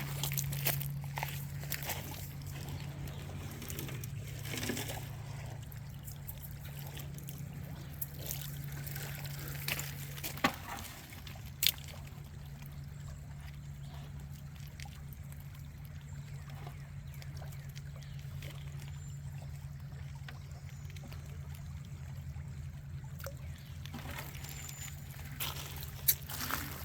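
Shallow creek water trickling under a steady low hum, with a few sharp clicks or knocks around ten and twelve seconds in.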